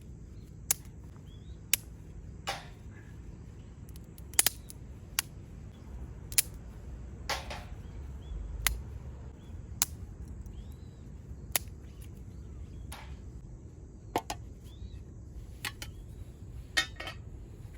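Wood fire crackling in a folding fire pit: sharp, irregular pops about one every second or so, over a steady low rumble.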